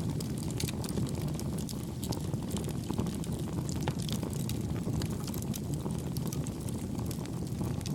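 Campfire burning with a steady low rumble and frequent soft, small crackles and pops.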